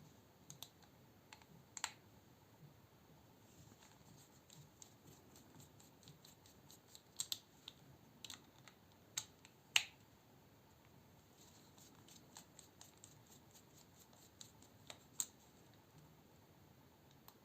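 Scattered small clicks and taps at irregular intervals, the loudest about ten seconds in: a small folding knife's screws, parts and a bit driver being handled and set down during disassembly.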